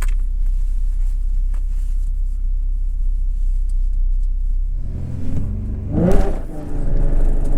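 2011 Ford Mustang's 3.7-litre V6 idling steadily, then about five seconds in revving hard as the car launches at full throttle. The pitch climbs, drops briefly at a gear change a little after six seconds, and climbs again.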